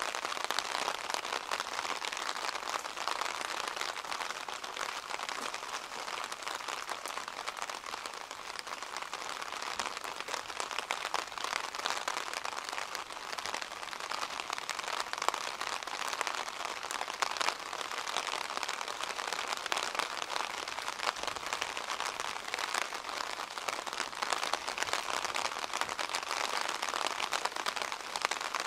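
Steady rain falling, a dense patter of drops that never lets up.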